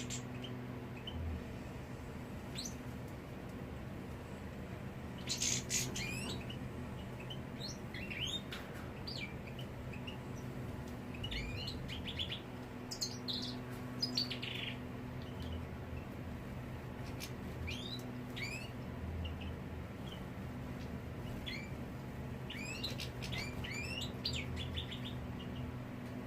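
Caged European goldfinches calling in short, scattered rising chirps and twitters, over a steady low hum.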